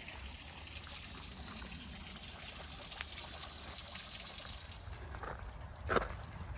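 Small creek trickling steadily, its sound thinning out near the end, with a brief sharp sound about six seconds in.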